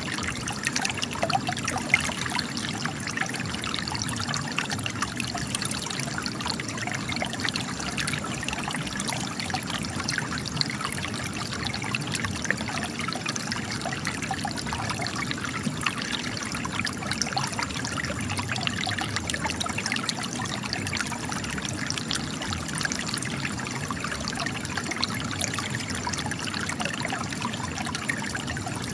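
Spring water trickling and splashing out of cracks in rock, a steady continuous burble with fine splashing detail.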